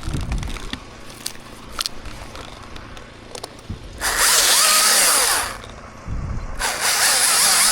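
Chainsaw revved in two bursts of about a second and a half each, cutting through ash wood, with a few small knocks before the first burst.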